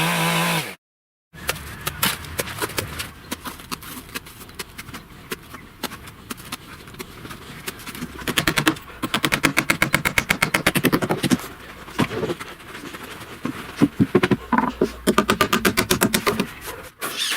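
A rapid rattling run of sharp knocks, many a second, coming in bursts, with the densest runs about halfway through and again near the end.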